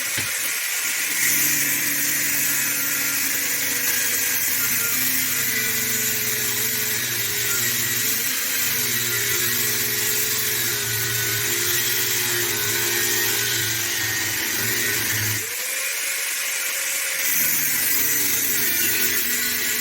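Electric power tool running continuously under load, its motor note wavering as it works. About fifteen seconds in, the deep hum drops out briefly and the motor note rises again.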